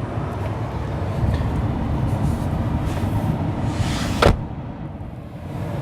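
Low, steady rumble inside the cab of a 2018 Ford F-150 King Ranch pickup, with one sharp click about four seconds in, after which the rumble is quieter.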